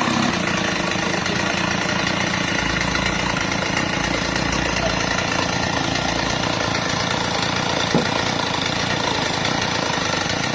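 An engine idling steadily, with one short knock about eight seconds in.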